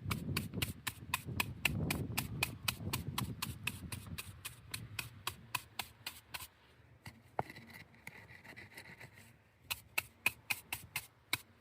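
A stick tapping rapidly and evenly on fresh mortar joints between flints, about four taps a second, to bring up the grain of the joint. The tapping thins out for a few seconds past the middle, then picks up again near the end.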